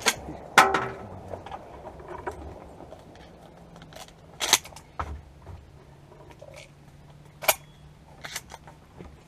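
Hunters' gear clicking and knocking as they walk through a marsh: scattered sharp clicks and knocks, the loudest about half a second in and a few more spread through the rest.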